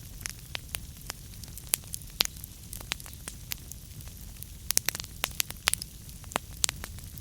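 Wood fire burning in a fireplace: irregular sharp crackles and pops from the burning logs over a steady low rumble of the flames, with a busier run of pops about five seconds in.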